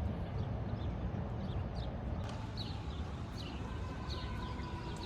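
Outdoor street ambience: a steady low rumble with a string of short, high chirps, and a steady tone entering near the end.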